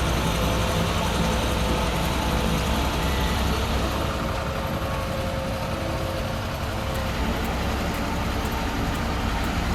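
Heavy vehicle engine running steadily, a continuous low rumble.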